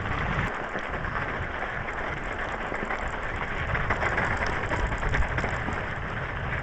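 Electric bicycle riding over frozen, crusted snow: a steady crackling hiss of the tyres on the snow, with small scattered clicks and knocks from the bumpy ground.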